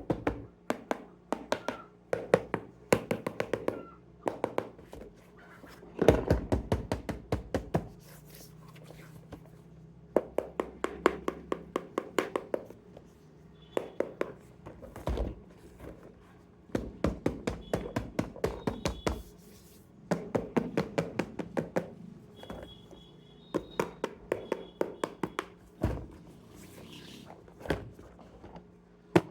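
Remote-control toy running: rapid mechanical clicking in repeated bursts of a second or two, with a few short high electronic beeps between them.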